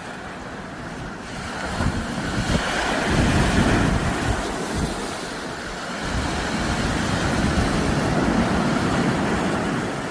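Sea waves washing onto the shore, with wind buffeting the microphone. The surge swells about two seconds in and again about six seconds in.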